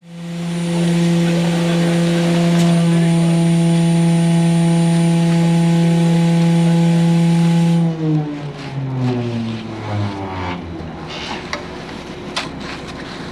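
A motor running at a steady pitch, then switched off about eight seconds in, its pitch falling as it spins down, followed by a lower rumble with a few sharp clicks.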